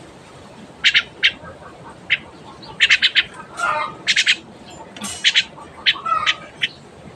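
Pet bird giving a string of short, high calls at irregular intervals, some in quick clusters of two or three.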